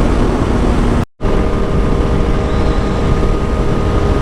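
Motorcycle riding at steady speed: wind rushing over the helmet microphone, with a steady engine drone underneath. The sound cuts out completely for an instant about a second in, then picks up again with the engine hum a little more evenly pitched.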